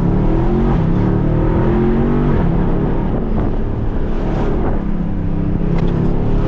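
Jeep Grand Cherokee SRT's V8 heard from inside the cabin under hard acceleration, its pitch climbing. About two and a half seconds in the pitch drops with an upshift, then climbs again.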